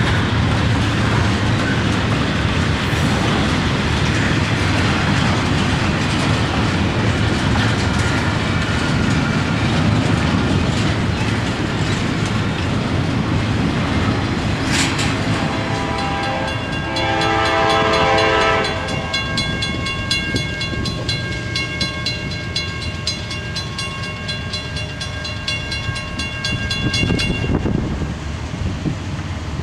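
Double-stack intermodal freight cars rolling past on the rails. Just past halfway a train horn sounds as a steady multi-note chord, loudest at first and held for several seconds, then cuts off near the end.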